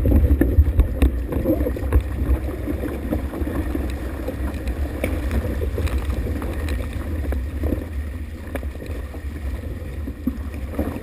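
Strong wind buffeting the microphone: a steady low rumble that swells and dips, loudest in the first couple of seconds.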